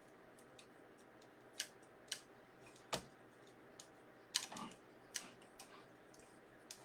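Faint, scattered light clicks and taps, about half a dozen, from hands working at a craft table, hot-gluing wired burlap ribbon; the sharpest click comes about three seconds in, with a quick cluster a little later.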